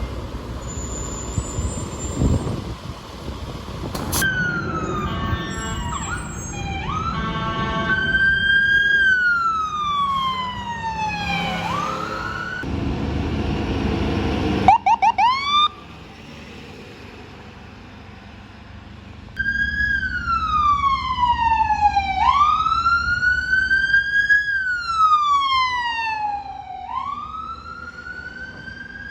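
Emergency vehicle sirens sounding as the vehicles respond. A fast yelp comes first, then a slow wail that rises and falls every two to three seconds, over the rumble of vehicle engines and traffic. The sound drops back briefly about halfway through before the wail returns.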